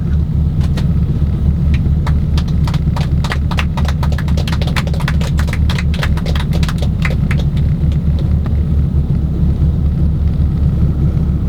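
The three radial engines of a Junkers Ju 52 running with a steady low drone, heard inside the cabin as the aircraft taxis to its parking position. For the first seven seconds or so, a scatter of sharp clicks, several a second, sounds over the drone.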